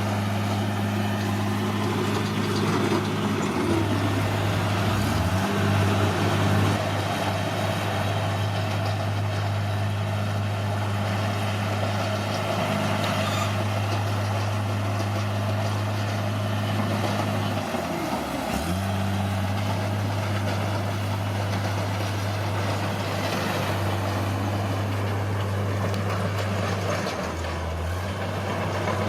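Bulldozer's heavy diesel engine running steadily. Its pitch dips briefly three times, most deeply about two-thirds of the way through.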